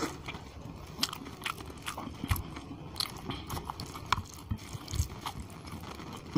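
Close-miked chewing of a mouthful of chicken curry and khichuri, with many irregular wet mouth clicks and smacks. Fingers squish through the gravy-soaked rice on the plate.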